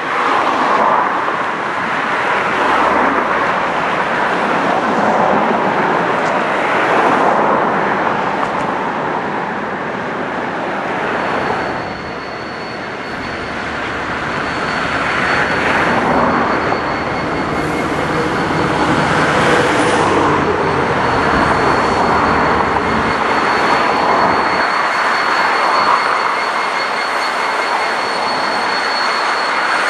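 Norfolk Southern diesel freight locomotives hauling a double-stack intermodal train past, engines running over the steady rumble and clatter of the train's wheels and cars. A thin, steady high whine joins in about a third of the way in.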